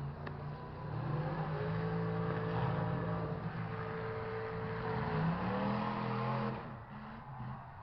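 Demolition derby truck engines revving: the pitch climbs about a second in, holds high, rises once more, then drops off sharply near the end.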